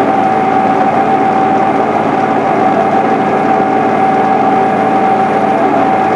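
John Deere 8970 tractor's six-cylinder Cummins diesel running steadily, with a strong steady whine over the engine drone.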